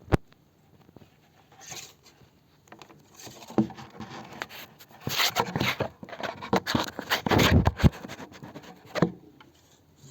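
Adhesive backing being peeled and a red LED pressed and rubbed into place: irregular scratchy rustling, scraping and small clicks, sparse at first and busiest through the middle and latter part.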